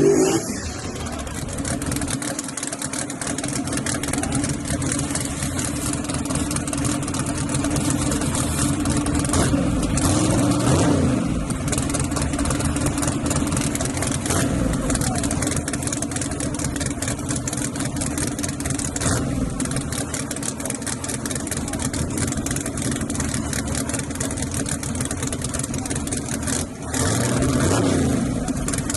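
Drag-racing vehicle engines running steadily, with an engine rising and falling in pitch about ten seconds in and again near the end.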